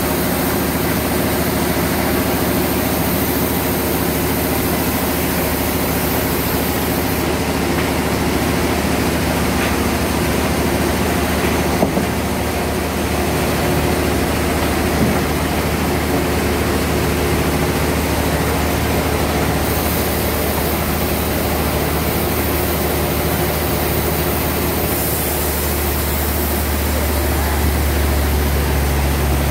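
Sawmill bandsaw running steadily with a constant low machine hum and a high hiss that fades for several seconds midway and then returns. There is a single short knock partway through, and the low hum grows louder near the end.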